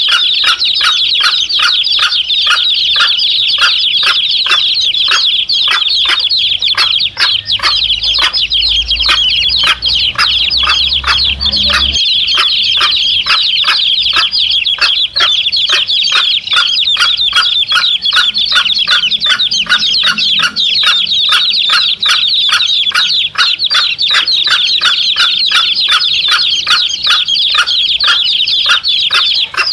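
A brood of domestic chicks peeping continuously and high-pitched, with the mother hen clucking in a quick, even rhythm of about three calls a second.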